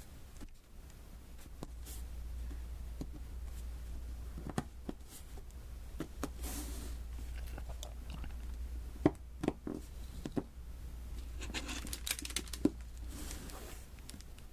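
Diamond painting at close range: small resin drills being tapped and pressed onto the sticky adhesive canvas, making irregular light clicks and taps. A few sharper clicks come past the middle, and there are short sticky, crinkly rustles.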